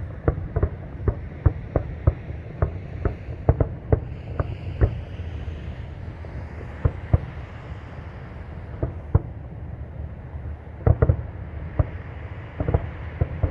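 Distant fireworks: a rapid run of bangs, several a second, for the first few seconds, thinning out midway, then another quick cluster about eleven seconds in and again near the end, over a steady low rumble.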